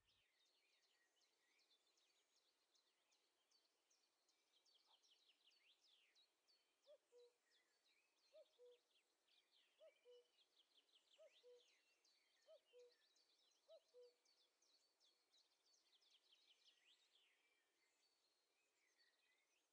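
A common cuckoo calls its falling two-note "cuck-oo" six times in steady succession, faint and distant, over a thin chorus of high-pitched songbirds twittering.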